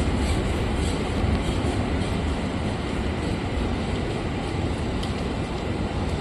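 Freight train hauled by an ET22 electric locomotive rolling past, a steady rumble of wagons on the rails.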